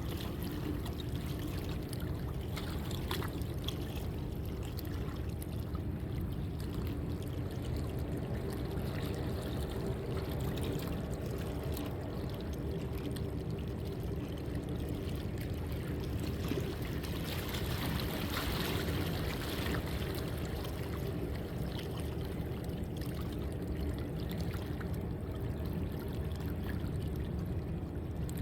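Steady rush of water, with a faint low engine hum underneath.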